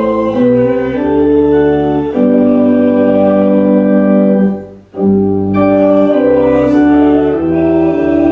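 Church organ playing sustained hymn chords, the chords changing every second or so, with a brief break about five seconds in before it starts again.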